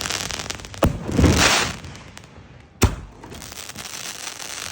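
Canister shell fireworks going off: two sharp bangs about two seconds apart, the first followed by half a second of loud hissing and crackling as the shell's effects burn.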